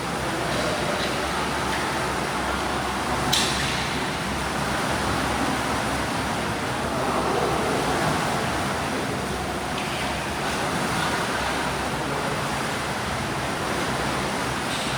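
Swimming pool hall ambience: a steady wash of splashing water from swimmers, with a sharper splash about three seconds in.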